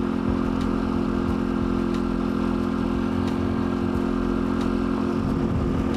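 Dirt bike engine running at a steady, unchanging pitch.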